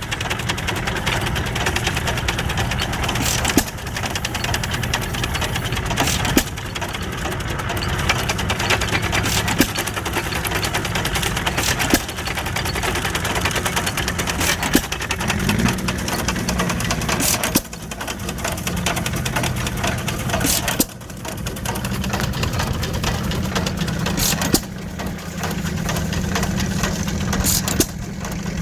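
Antique stationary gas engines running at a corn-stalk grinding display: a steady engine drone, with sharp firing cracks every few seconds, typical of a hit-and-miss engine. About midway the engine's pitch briefly rises, as if it has taken up a load.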